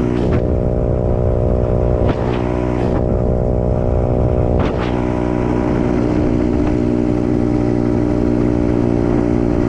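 A 125cc dirt bike's small single-cylinder engine running at a steady speed while being ridden, its pitch holding nearly constant. There are a few brief clicks over the steady engine note.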